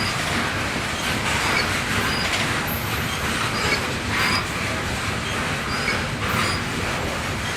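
Railroad cars rolling steadily along the track, with short high-pitched wheel squeals that recur every second or so and an occasional sharp click from the wheels.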